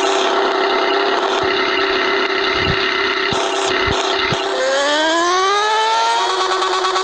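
Yamaha XJ6's inline-four engine running at a steady, fairly high pitch. About four and a half seconds in, it revs up in a smooth rising sweep before settling into a steady note again.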